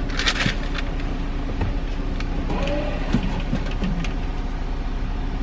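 Car engine idling steadily, heard from inside the cabin, with a few light clicks and a brief paper rustle near the start.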